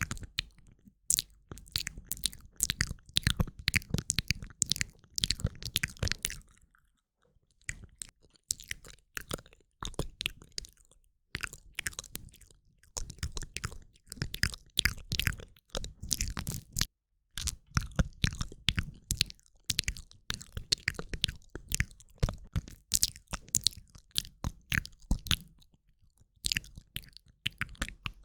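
Close-up ASMR mouth sounds from a woman: rapid wet clicks and smacks of the tongue, lips and saliva, coming in dense runs with brief pauses.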